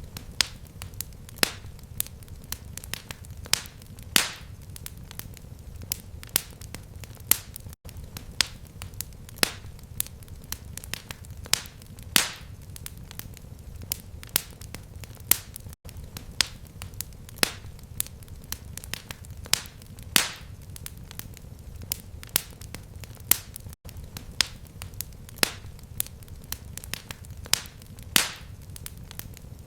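Fireplace fire crackling: irregular sharp pops and snaps, some louder than others, over a steady low rumble. The sound drops out for an instant about every eight seconds.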